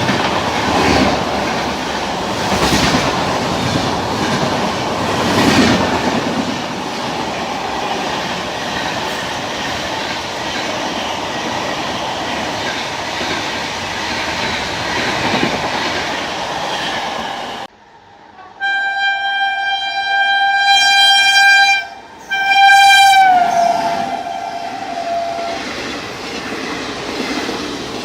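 Indian Railways express train passing at speed, with the steady rumble and clatter of its wheels on the track. About two-thirds of the way in the rolling noise cuts off and a train horn sounds two long blasts, the second sliding down in pitch at its end and held briefly. The train noise then comes back.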